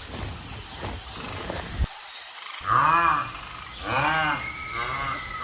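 Rhinoceros calling three times after a cut about two seconds in, each call rising and then falling in pitch. The calls come after a stretch of low rumbling background.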